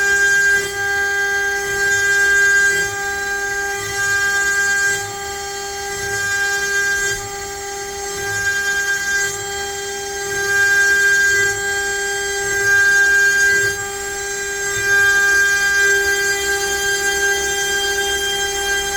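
CNC router spindle whining steadily as the bit cuts letters into pine, the sound growing louder and easing off every couple of seconds as the cutter moves through the wood.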